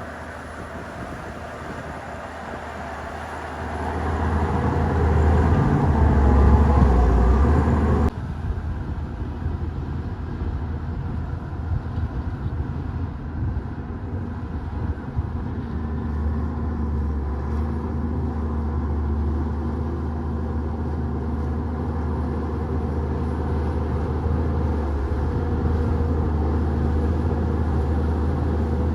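Diesel engine of a Shantui DH17-C2 bulldozer running under load while pushing dirt. It swells louder from about four seconds in, then drops abruptly about eight seconds in to a steady, lower running for the rest.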